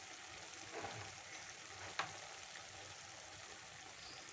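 Onion-tomato masala sizzling faintly in hot oil in a kadai, with a soft tick about two seconds in.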